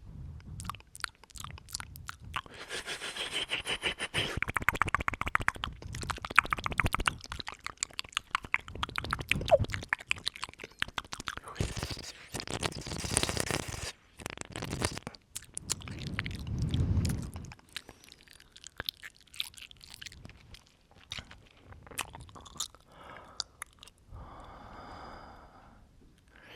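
Close-up ASMR mouth sounds: dense wet clicks, smacks and pops, with breaths blown onto the microphone in places.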